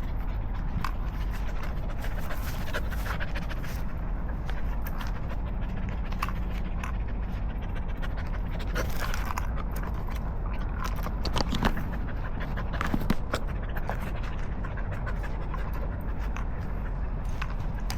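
A dog panting steadily, with scattered light clicks and scrapes, two of them louder past the middle.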